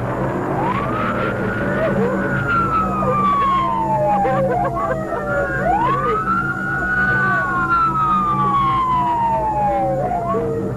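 Police car sirens wailing in slow cycles, each rising quickly and then falling slowly, with more than one siren overlapping, over a steady low engine hum.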